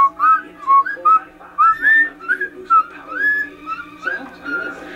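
Cockatiel whistling a song: a quick run of short, clear whistled notes, many sliding upward, about three or four a second.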